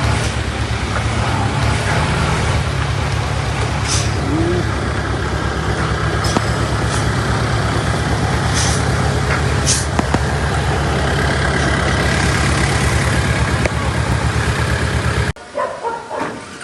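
Heavy diesel engine of earthmoving machinery running steadily, with a few short hissing bursts. It cuts off abruptly near the end, leaving quieter short sounds.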